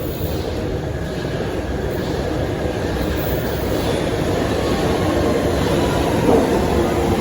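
Train moving along a station platform: a steady rumble that slowly grows louder, with thin steady tones coming in near the end.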